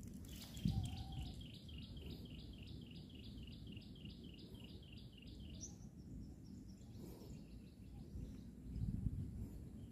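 A bird calls in a fast, even series of high chirps, about five a second, that stops after about five seconds. Under it is a steady low rumble, with two low thumps, one near the start and one near the end.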